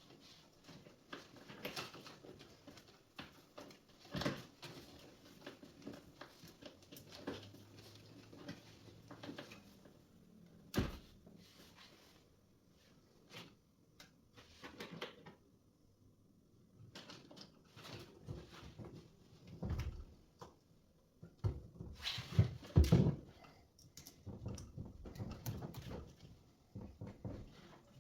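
Irregular clicks, taps and knocks of hands and tools handling washing-machine parts, with no motor running. The loudest knocks come in a cluster a little past two-thirds of the way through.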